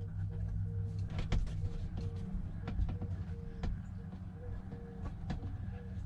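Scattered clicks and knocks of parts and tools being handled during work inside a truck cab, over a steady low hum and a faint, evenly pulsing tone.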